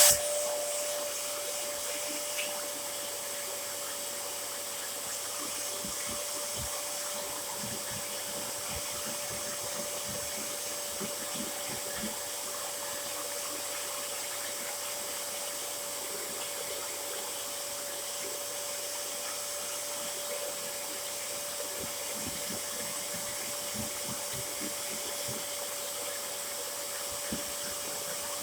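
Dyson DC07 upright vacuum cleaner running steadily, its motor holding a single high whine over a steady rush of air, with scattered faint clicks of debris.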